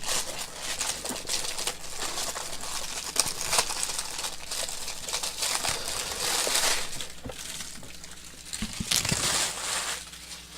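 Packaging of a Funko Pop mystery box being opened by hand: a steady crinkling and rustling with many small clicks.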